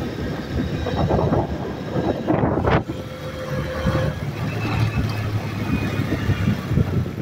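Honda CG 150 Fan motorcycle's single-cylinder engine running as it rides along at a steady pace.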